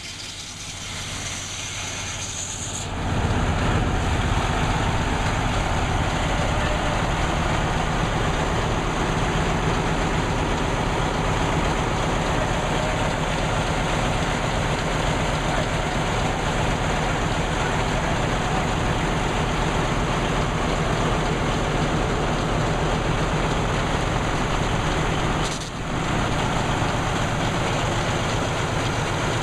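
Sawmill machinery running: the mill's engine power unit and drive, loud and steady, with a low, fast pulsing beat. It grows much louder about three seconds in and dips briefly near the end.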